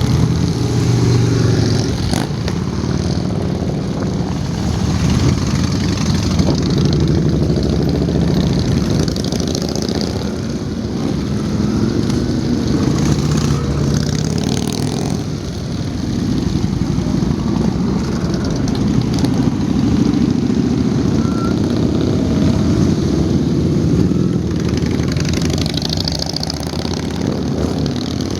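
Motorcycle engines running, a loud steady rumble that swells and dips.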